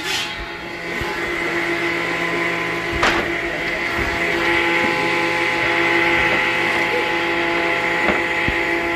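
Woodworking machinery running steadily with a constant motor hum and no cut being made, with a sharp knock about three seconds in and another near the end.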